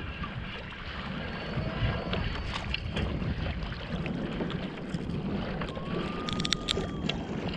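Wind buffeting the microphone and water washing against a kayak hull, with scattered small knocks and clicks.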